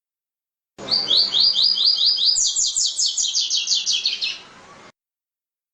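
Double-collared seedeater (coleiro, tui-tui type) singing: a quick run of short, high, downward-sweeping notes that starts about a second in, turns faster and higher about halfway through, and stops after about three and a half seconds.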